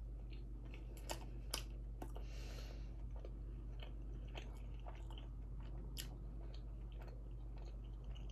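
Close-miked chewing of a mouthful of buttered bread: soft, wet mouth clicks scattered throughout, with a short breath of air a little after two seconds.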